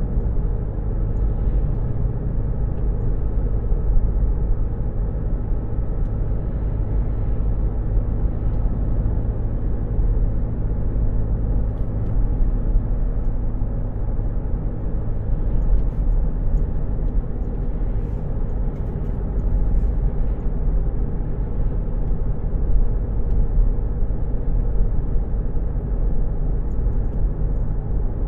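Car driving: a steady low rumble of engine and road noise, with a constant low hum.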